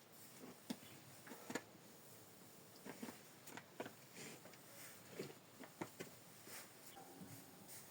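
Near silence with faint, scattered light clicks and taps, about a dozen spread irregularly through the stretch.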